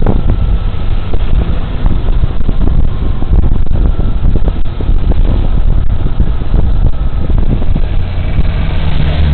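Wind rushing and buffeting over a bodycam microphone while riding a Suzuki Burgman Street 125 scooter, with the scooter's single-cylinder engine running underneath. The buffeting is loud and uneven throughout.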